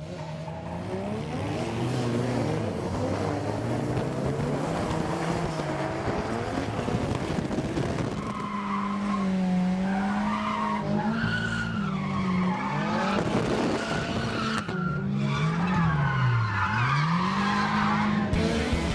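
Drift car engine revving up and down while its rear tyres squeal through sustained slides. From about halfway on, the squeal rises and falls in pitch along with the engine.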